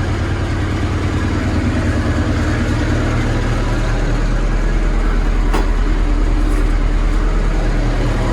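Sandblasting equipment running steadily: a low motor drone under a broad, even hiss, with one short click about five and a half seconds in.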